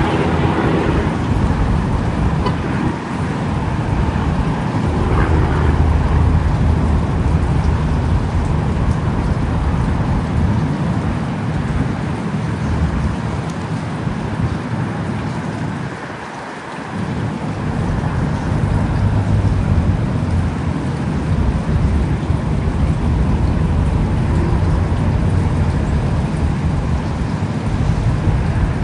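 Thunderstorm: heavy rain falling steadily with deep, low rumbling thunder underneath, easing briefly about sixteen seconds in.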